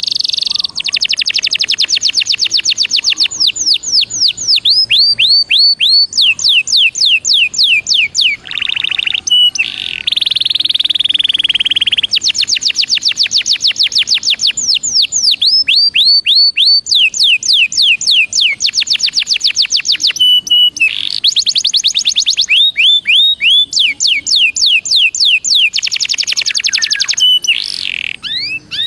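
Belgian canary singing a long, loud song of fast trills: runs of rapid downward-sweeping notes alternating with buzzy rolls, with only brief breaks between phrases.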